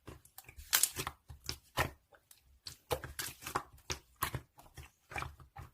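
Irregular light clicks and taps from objects being handled at close range, some coming in quick clusters.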